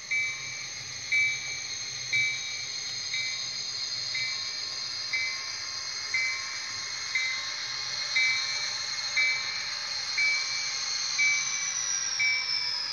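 HO scale model train led by SD45 locomotives running, with a bell ringing about once a second over a steady high whine. The whine drops in pitch near the end.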